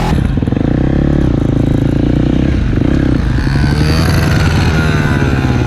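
Dirt bike engine running under throttle, its pitch dipping about three seconds in and then rising and falling as it is revved.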